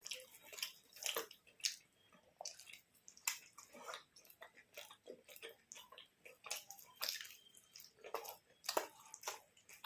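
Close-miked eating sounds: faint, irregular chewing, biting and soft wet squishing, with small sharp clicks every fraction of a second.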